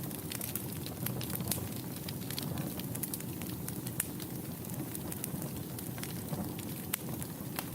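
Wood fire burning in a fireplace: a steady low rumble of flames, with many small, irregular crackles and pops from the burning wood.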